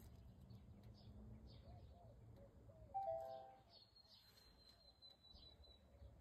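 Short electronic chime of a few stacked tones about three seconds in, trailing into a faint thin high tone that falls slightly. Under it is a faint low rumble.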